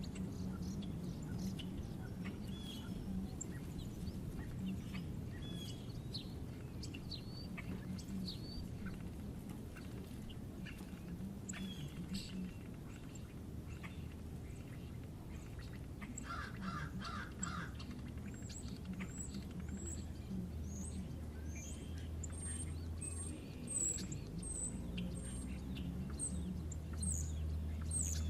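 Wild birds chirping and calling, with many short high notes and a brief run of rapid lower notes about two-thirds of the way through. A steady low rumble lies underneath and gets louder in the last few seconds.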